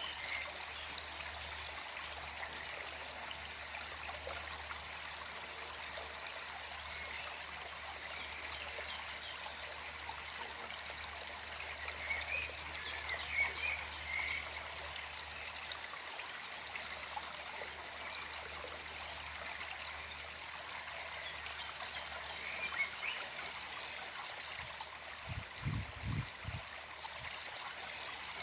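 Small forest stream flowing and trickling steadily, with birds chirping now and then above it in short groups of high notes. A few low thumps sound a little before the end.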